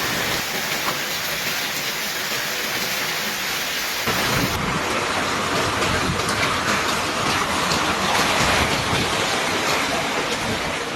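Heavy storm rain pouring down as a steady rushing hiss. About four seconds in it changes to a louder, denser patter of sharp drop hits.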